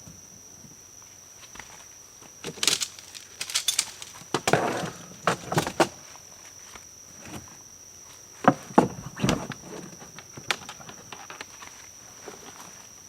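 Irregular knocks, thuds and rustles of gear being handled while a touring kayak is packed. They come in two clusters, a few seconds in and again past the middle.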